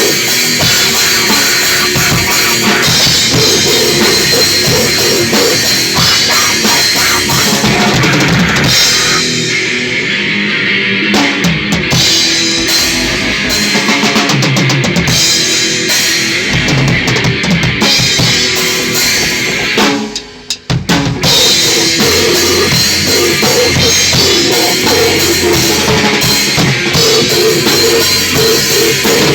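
Crust grindcore band jamming loud, with a drum kit's bass drum and cymbals driving it. About two thirds of the way through the band stops for roughly a second, then comes back in at full volume.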